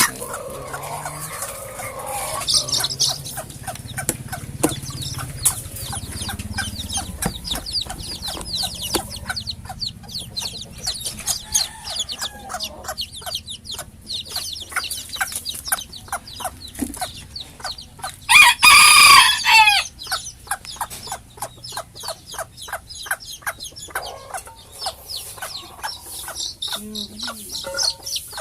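Bantam chickens clucking, with many quick short calls throughout. A bantam rooster crows once, loudly, for about a second and a half, about two-thirds of the way through.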